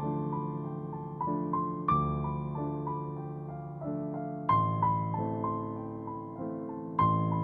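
Gentle background piano music: slow arpeggiated notes over sustained chords, with a fresh chord struck about two seconds in and again near the middle, each ringing and fading.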